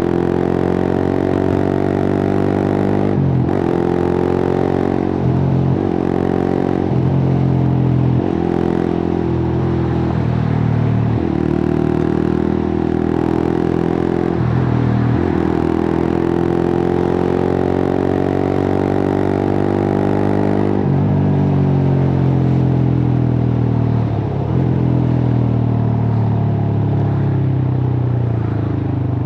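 Suzuki GSX-R150's single-cylinder engine through a cut-open exhaust, ridden hard: the revs climb and drop sharply several times as it shifts up through the gears. In the second half the pitch holds, then sinks slowly as the bike slows.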